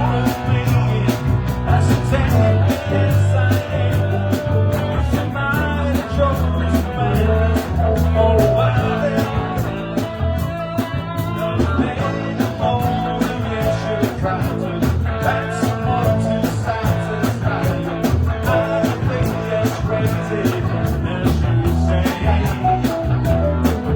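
Live band playing rock music, with a steady drum beat under a bass line and pitched instruments.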